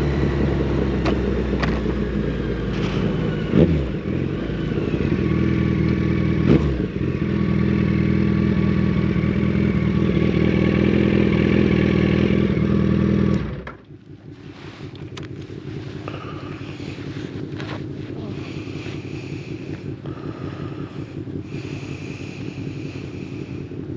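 Yamaha FZ1 Fazer's inline-four engine running through a Mivv GP exhaust with the dB killer removed, with three short throttle blips in the first few seconds. The engine cuts off about halfway through, leaving quieter clattering and scraping.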